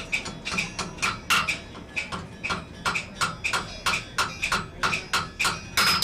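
Blacksmith's hand hammer forging iron on an anvil: a steady rhythm of about three to four blows a second, each with a short ringing note.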